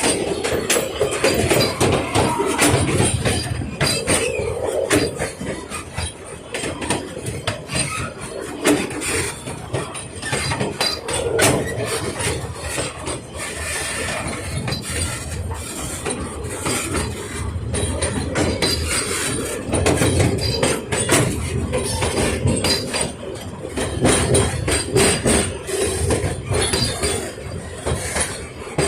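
Puffing Billy narrow-gauge train running: wheels clicking and knocking over the rail joints over a steady rumble, with the carriages rattling.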